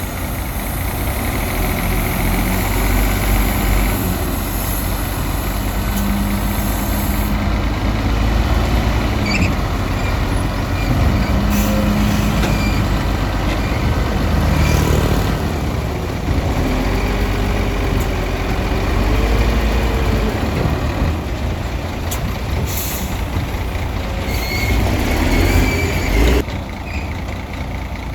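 Heavy bulldozer's diesel engine running under load, its pitch rising and falling as the machine works, with a few sharp metallic clanks.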